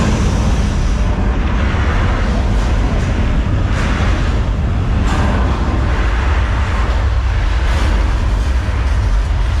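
Theme-park earthquake special effect: a loud, continuous deep rumble with crashing and rushing noise that swells several times, as the staged subway-station quake shakes the set.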